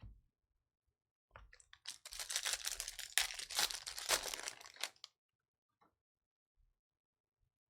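Foil wrapper of a baseball card pack being torn open and crinkled, a dense crackling tear lasting about four seconds, starting about a second and a half in.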